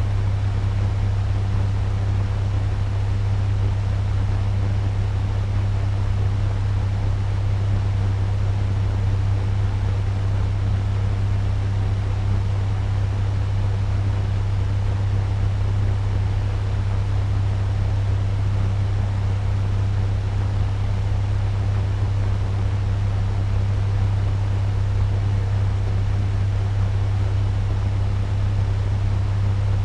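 Electric turbo fan running steadily at medium speed: a strong low hum under an even rush of air.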